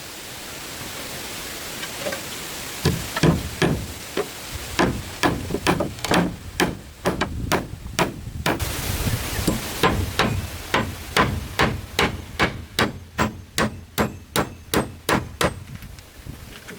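A hammer striking repeatedly in a steady rhythm, speeding up to about three blows a second. Before the blows start there is a steady hiss.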